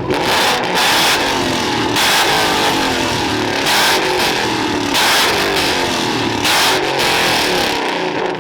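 Car engines revving hard, their pitch rising and falling, with about six short, loud bursts of noise at irregular intervals of one to one and a half seconds.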